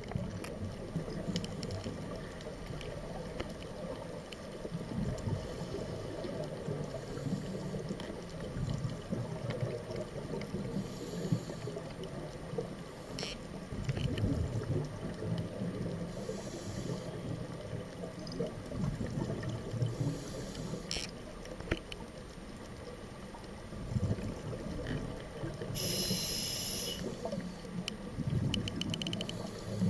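Underwater sound of a scuba diver breathing through a regulator, heard through the camera housing: a constant low rumble of water, broken several times by short hissing bursts of breath and exhaled bubbles, the strongest near the end.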